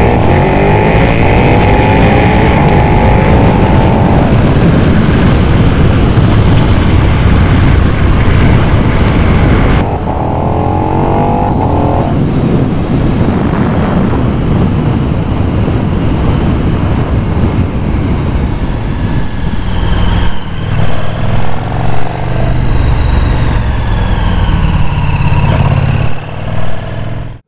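KTM 1290 Super Duke R's V-twin engine through an SC Project SC1-R carbon fibre slip-on exhaust, with a bassy note, accelerating hard through the gears. The engine pitch climbs, drops at a gear change and climbs again, then rises and falls more gently near the end.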